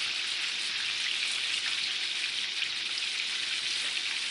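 Chicken pieces frying in hot grease in a pan: a steady sizzle with fine crackling.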